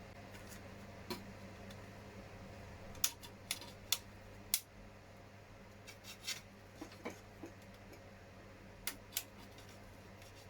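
Hard plastic model parts being trimmed and handled: a series of small sharp clicks and snips, spaced irregularly, as moulding flash is cut off lenses and parts are set down.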